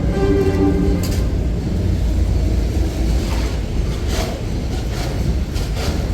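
Wind buffeting the microphone in a snowstorm, a steady low rumble. A brief pitched tone sounds in the first second, and there are a few faint knocks.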